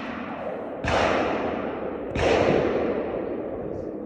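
Two gunshots about a second and a half apart, each a sharp report trailing off in a long echo.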